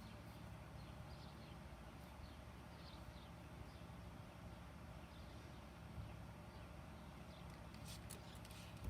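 Faint outdoor ambience: a low steady hum under scattered faint, high chirps, with a few sharp clicks near the end.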